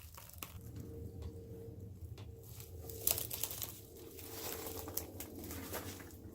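Crackling and crunching of debris as someone moves through a decaying room, with scattered small clicks, over a faint steady hum.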